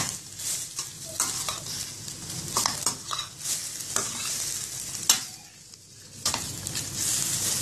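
Chicken pieces with onion, tomato and chillies sizzling in a steel kadai while a slotted metal spatula stirs and scrapes them against the pan. A sharp metal knock about five seconds in, then the sizzle falls away for about a second before the stirring resumes.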